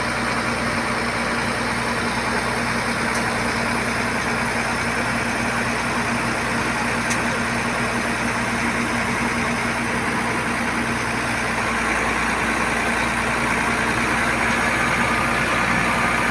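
Diesel engine of a boom truck running steadily at idle, a little louder near the end.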